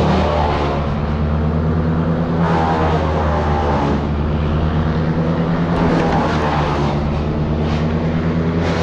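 Engine running steadily, with higher-pitched surges near the start and again around the middle.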